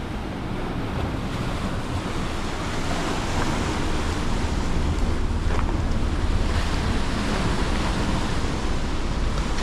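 Ocean surf washing against a rocky shore, a steady rushing that swells a couple of seconds in, with wind buffeting the microphone in a low rumble.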